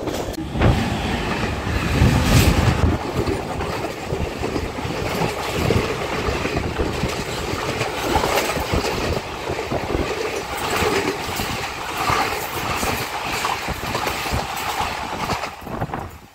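Sleeper-class coach of the Konkan Kanya Express running along the track, heard from on board: a steady rumble of wheels on rails with irregular knocks and clicks, the low rumble heaviest in the first few seconds.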